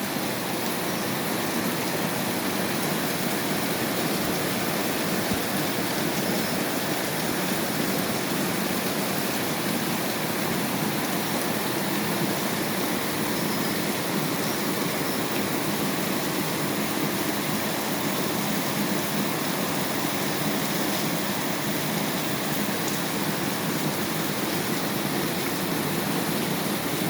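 Rain falling steadily, an even hiss of water with no let-up.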